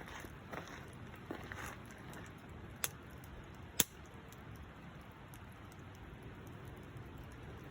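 Wood fire crackling softly, with two sharp pops about a second apart near the middle.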